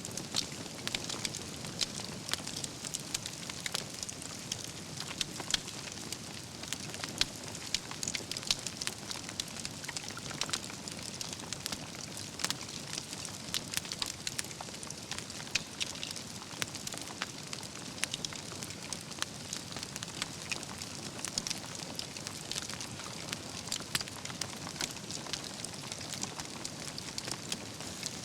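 Wood fire burning steadily, with a constant low rumble of flame and many quick, irregular crackles and pops from the logs.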